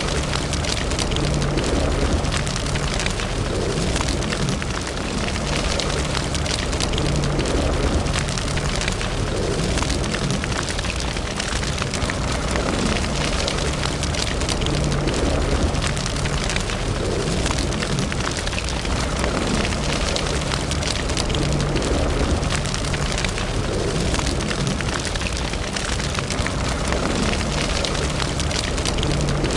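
Wood fire burning in a fireplace: a steady rush and low rumble of flames with dense crackling and small pops throughout.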